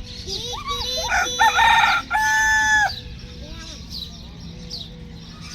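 A rooster crowing once: a run of broken rising notes, then one long level note held for nearly a second. Small birds chirp faintly around it.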